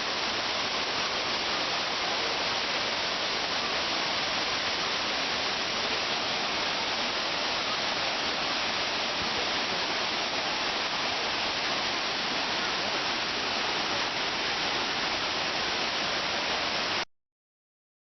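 Shiraito Falls, a wide curtain of many fine cascades, sending up a steady rush of falling water that stops abruptly near the end.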